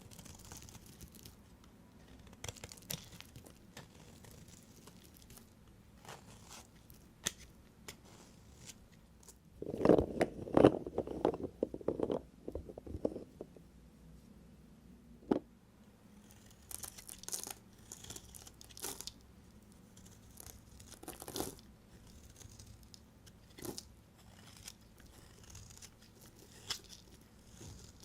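A knife cutting through bars of soap: short crisp cuts and scrapes spaced several seconds apart. About ten seconds in comes a louder run of rapid cuts lasting about three seconds.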